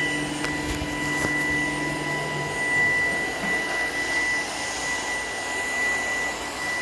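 Shark PowerDetect cordless vacuum running steadily, its motor giving a high whine over the rush of air, with a few light clicks in the first second and a half.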